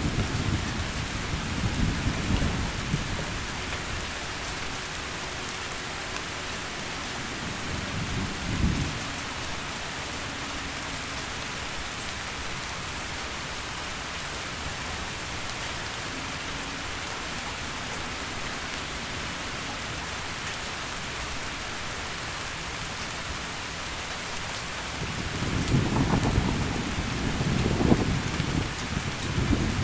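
Heavy rain falling steadily, with rolls of thunder rumbling low at the start, briefly about nine seconds in, and again building through the last few seconds.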